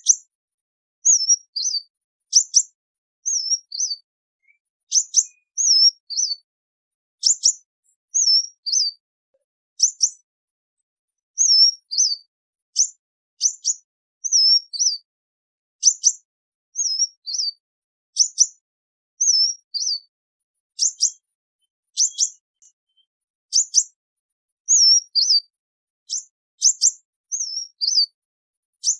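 Sunbird flock call: high, thin chirps, each a sharp short note followed by one or two quick falling notes, repeated about once a second in a steady pattern with silence between.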